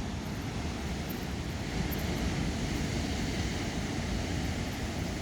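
Steady wind noise buffeting the microphone, a low, fluttering rumble with no distinct events.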